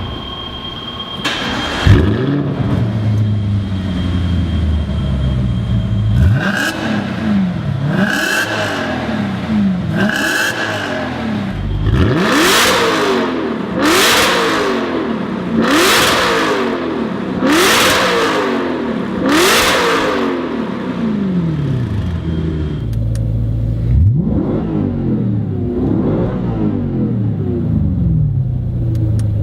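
Audi RS5 (B8) V8 through a stainless ARMYTRIX valved cat-back sport exhaust. It starts about two seconds in, settles to idle, then is free-revved in a series of blips. The strongest and highest revs come in five sweeps about two seconds apart through the middle, followed by a couple of lighter blips back to idle.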